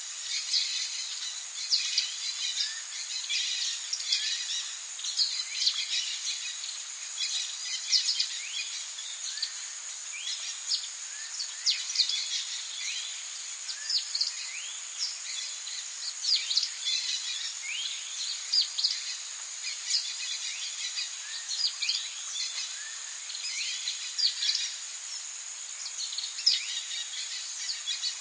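Tropical rainforest ambience: many short bird chirps and whistles, some sweeping up or down in pitch, over a steady high-pitched insect drone.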